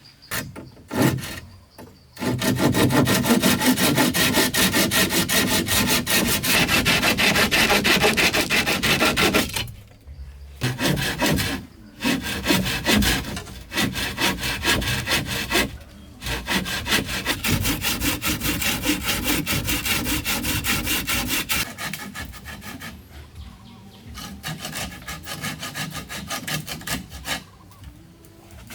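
A saw cutting wood in several long runs of quick, even strokes, broken by short pauses. The strokes grow fainter near the end.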